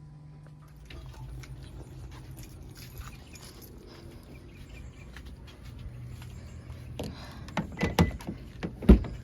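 A nature soundscape played through the car's speakers from its built-in 'Sounds of Nature' feature, a faint, irregular crackle of small clicks over a low steady hum. Several louder clicks and thumps come near the end.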